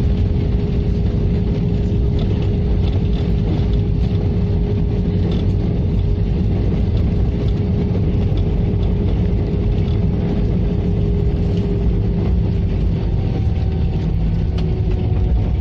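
Airbus A320's CFM56 jet engines running, heard inside the passenger cabin as a loud, steady rumble with a steady whine, which dips slightly in pitch near the end.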